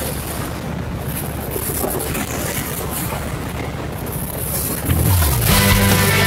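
Harley-Davidson Road King's V-twin engine running on the move, a steady low rumble. Music comes in about five seconds in.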